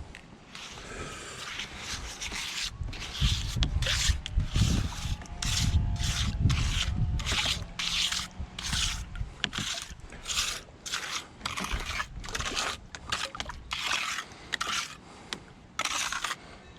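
Wet cement being scraped and worked by hand into a snap jacket form on a dock pile, in a run of short, repeated scrapes, about one or two a second, that start a few seconds in.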